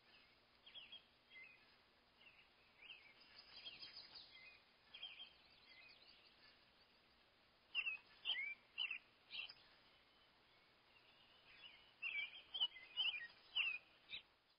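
Small birds chirping in scattered bouts of short, high calls, with louder runs of chirps a little past the middle and again near the end.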